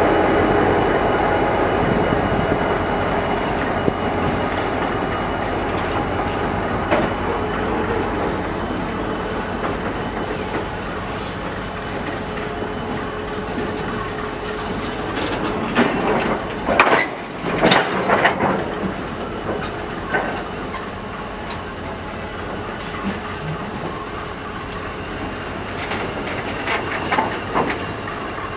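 Railway carriages rolling slowly along the track during shunting: a steady rumble with a thin whine that gradually fades. About two-thirds of the way through comes a cluster of clanks and knocks, with a few more near the end.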